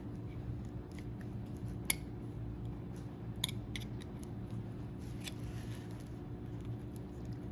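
Light clicks and scrapes of a hand tool on metal as a new seal is worked onto a hydraulic cylinder piston, over a steady low hum. The sharpest click comes about two seconds in, and a soft scrape comes near the end.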